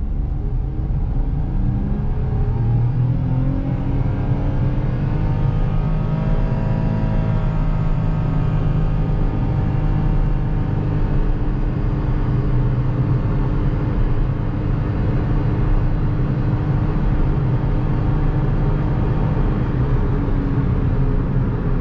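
Daihatsu Mira's 660 cc non-turbo three-cylinder engine at full throttle, accelerating the car from a standstill to about 100 km/h, heard from inside the cabin. It is a steady, loud engine drone over road noise, its pitch climbing slowly over the first several seconds and then holding.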